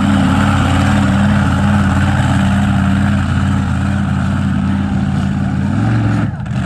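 Monster truck engine running hard at high, nearly steady revs. Near the end the pitch rises briefly, then drops off abruptly.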